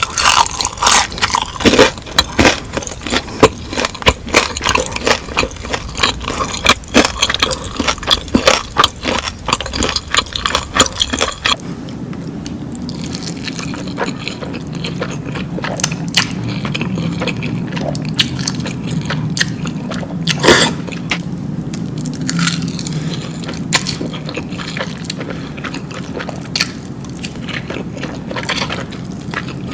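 Close-miked eating: wet chewing, squishing and crunchy biting clicks. About eleven seconds in the sound changes to sparser chewing over a steady low hum.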